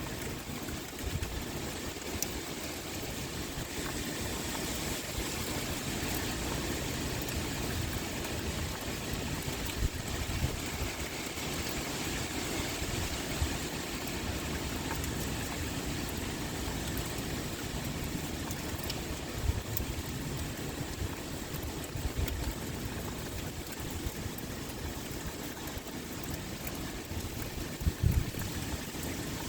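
Steady heavy rain pouring, with wind blowing. A few short low thumps stand out, one about two-thirds of the way in and another near the end.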